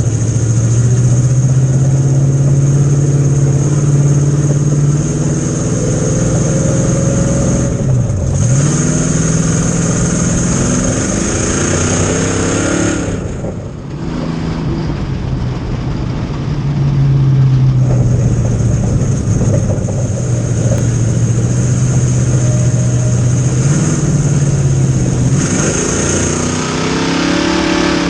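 Race cars running on the oval, their engines loud and steady, with the engine note dropping sharply and climbing back up several times, about every five to ten seconds.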